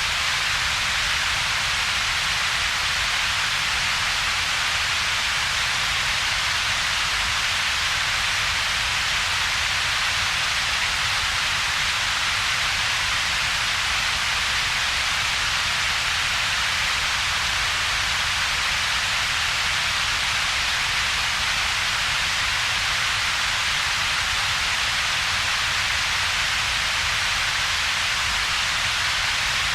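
Steady synthetic double-peaked noise: a hiss centred around 2–4 kHz over a weaker low rumble below about 200 Hz, with a gap between them. It runs evenly, with no change.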